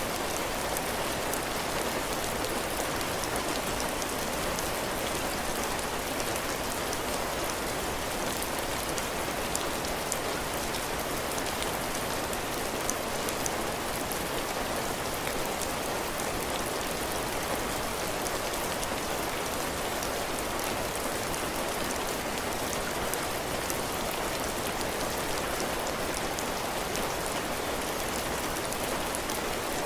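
Heavy rain falling steadily on a cabin porch roof and floor, an even hiss with fine drop patter.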